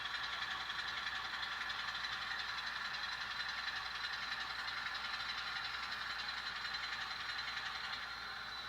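N scale model locomotive running along the track with a steady high-pitched whine, easing off slightly near the end.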